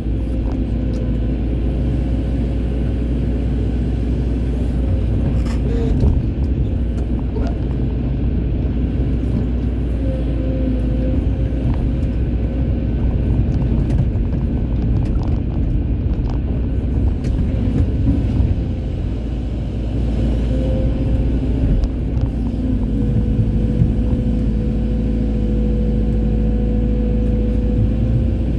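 Hydraulic excavator running steadily as it works, a continuous low engine rumble with a humming tone that shifts slightly and grows stronger about three-quarters of the way through.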